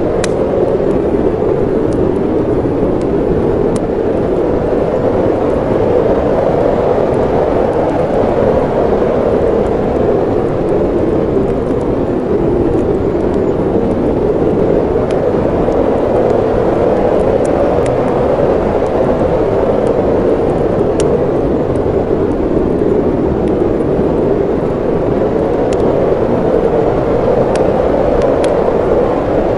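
Snowstorm wind blowing in a steady, deep rush, with a few faint sharp crackles from a wood fire now and then.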